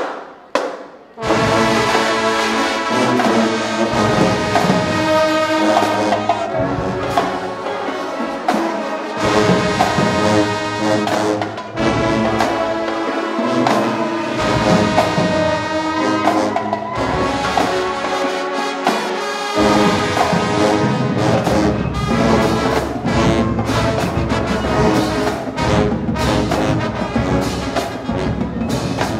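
High school marching band playing a loud brass tune, trumpets and trombones to the fore, coming in about a second in after a few sharp hits; the low bass drops out for short spells a few times.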